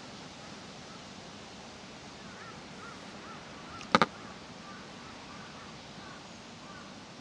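Steady outdoor park ambience with faint short bird calls through the middle. About four seconds in there is a sudden sharp double click, the loudest sound.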